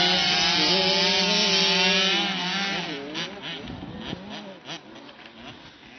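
Motocross bike engine running loud at a steady, slightly wavering pitch, then dropping off and fading after about two and a half seconds. Other bikes rev up and down further off.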